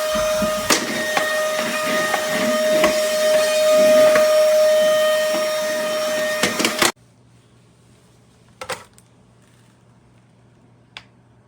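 Cordless stick vacuum cleaner running: a steady motor whine over a loud rush of air, with scattered small clicks. It stops abruptly about seven seconds in, leaving a faint hum and two light clicks.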